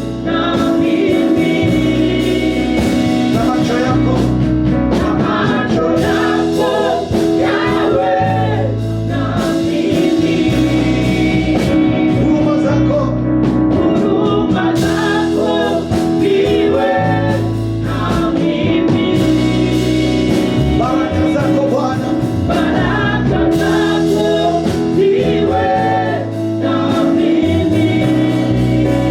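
Gospel worship song: a band playing sustained chords over a moving bass line, with singers singing over it.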